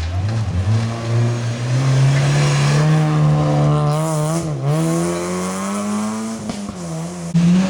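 Rally car engine accelerating hard, its pitch climbing through the revs with a brief dip about halfway through, like a gear change, before climbing again and easing off near the end.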